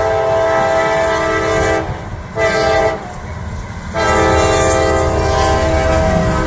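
CSX freight locomotive's multi-chime air horn sounding for a grade crossing: a long blast that ends about two seconds in, a short blast, then another long blast from about four seconds in. Underneath is the low rumble of the approaching train.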